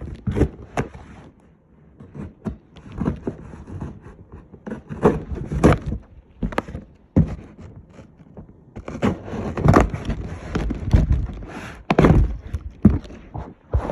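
Irregular thumps, knocks and scrapes of handling: a phone being set down and boxed subwoofers being moved about.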